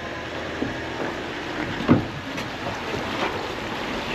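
Steady outdoor noise with scattered knocks and one loud thump about two seconds in.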